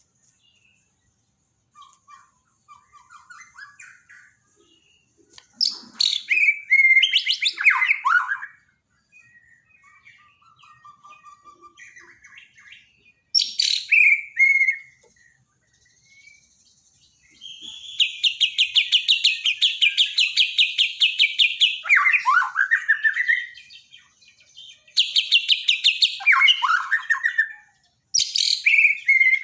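White-rumped shama (Bornean murai batu) song: loud phrases of sweeping, falling whistles and quick chattering notes, with softer twittering between them and a long, fast rattling trill held for several seconds past the middle.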